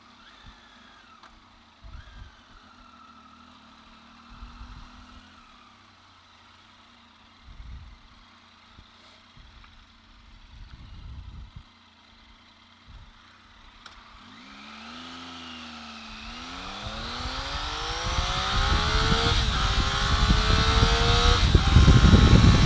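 Triumph Tiger 800XC's three-cylinder engine, quiet at low speed at first, then accelerating hard from about two-thirds in, its pitch rising and dropping back at each upshift, with wind noise building as speed rises.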